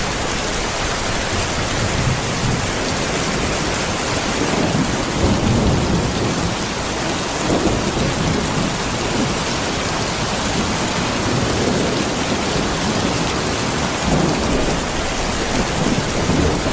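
A thunderstorm: steady rain falling, with low rumbles of thunder swelling and fading under it.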